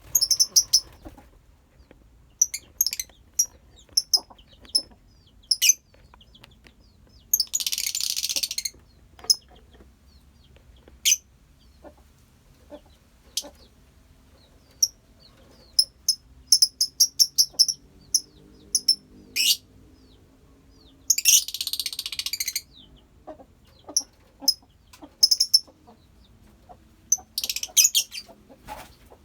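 A colony of lovebirds chirping: many short, sharp, high-pitched chirps throughout, with two longer harsh screeches, one about eight seconds in and one about twenty-one seconds in.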